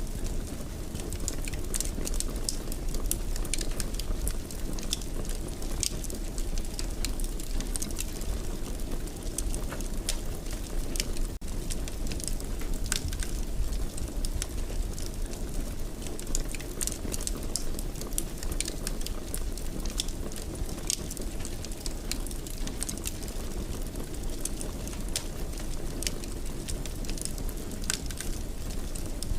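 Wood fire burning in a fireplace, crackling with frequent irregular sharp snaps and pops over a steady low rumble of the flames.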